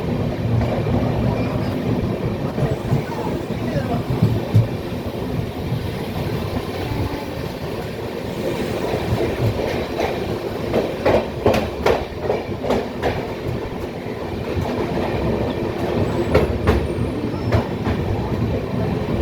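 Passenger train running along the track with a steady rumble. Its wheels clatter over rail joints in two runs of quick knocks, the first about halfway through and the second near the end.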